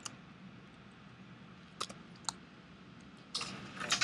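Scattered computer keyboard and mouse clicks over a faint room hum: two single clicks about two seconds in, then a short run of clicks near the end.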